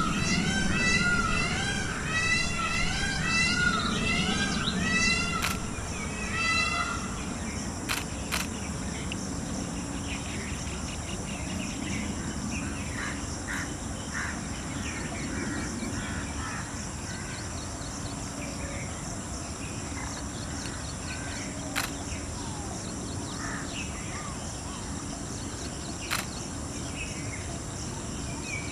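Birds calling: a rapid run of repeated rising-and-falling calls for the first several seconds, then fainter scattered calls over steady background noise, with a few sharp clicks.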